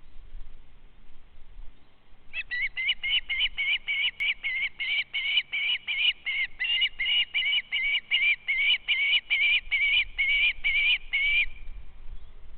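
A bird calling a long, even series of about two dozen short, high piping notes, between two and three a second, lasting about nine seconds and starting a couple of seconds in.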